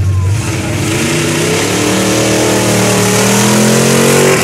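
Car launching off the start line at full throttle: the engine is held at steady high revs, dips as the car takes off, then rises steadily in pitch as it accelerates hard, and cuts off as the throttle is lifted near the end.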